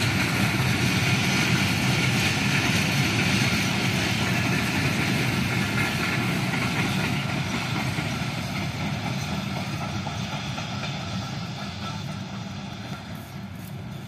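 Bangladesh Railway passenger train running past on the track, a steady rolling noise of the coaches that fades gradually over the last several seconds as the train moves away.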